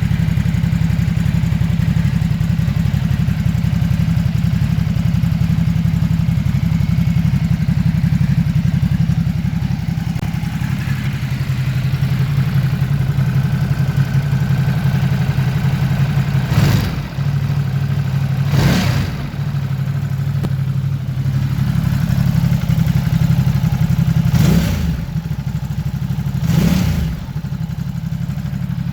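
Ducati Supersport S's 937cc L-twin engine idling through its exhaust, with four quick blips of the throttle in two pairs, the first pair a little over halfway through and the second near the end.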